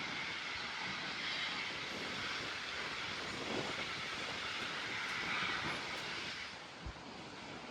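Passing train: a steady rushing noise of the moving train that falls away about six and a half seconds in.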